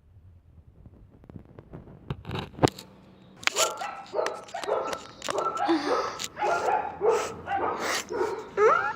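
A dog barking repeatedly, about one or two barks a second, starting about three and a half seconds in after some faint rustling and a few knocks.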